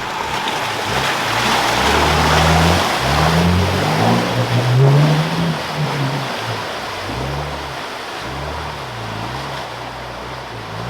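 A 4WD's engine revving hard as it pushes through a deep mud bog, with a loud wash of splashing mud and water. The engine note rises and falls, loudest in the first half, then fades.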